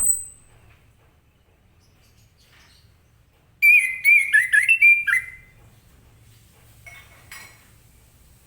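Orange-headed thrush singing: a sweeping whistled note at the very start, then about three and a half seconds in a loud phrase of quick warbled notes lasting about a second and a half, with a few fainter notes near the end.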